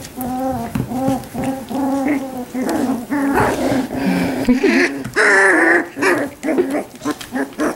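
Young Australian Labradoodle puppies whining and yipping in a string of short calls, with a louder, higher cry about five seconds in.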